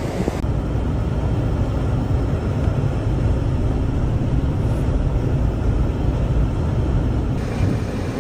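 Steady low outdoor rumble with no distinct events, like traffic or wind noise from storm footage. The character of the sound shifts slightly about half a second in and again near the end.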